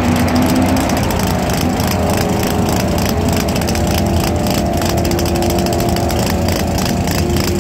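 Big V8 drag-car engine running steadily at low revs, with a slight rise in pitch just before the start.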